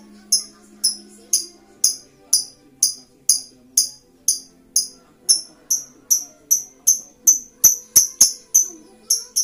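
Lovebird chirping over and over, short sharp high calls about two to three a second that come faster near the end. Two sharp knocks sound about three-quarters of the way through.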